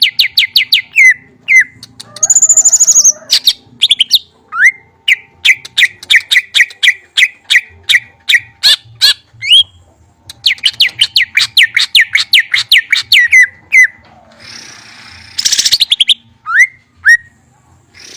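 A songbird singing long, fast trills of repeated falling chirps, with a higher whistled phrase and a few harsher, noisier bursts between the trills.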